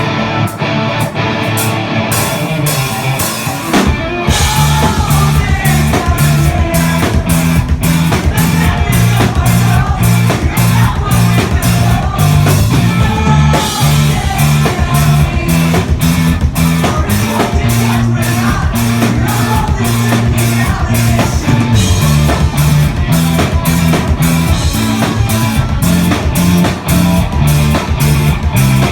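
Rock music with electric guitar, bass and drum kit, the full band coming in loud about four seconds in.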